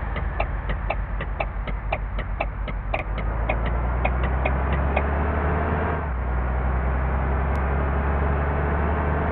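Scania diesel engine running steadily with a low rumble, overlaid by a regular light ticking about two to three times a second during the first five seconds.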